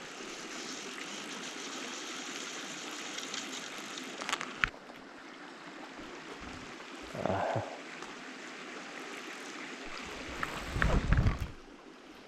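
Stream water running steadily, with a couple of sharp knocks about four seconds in and a burst of low thumps near the end.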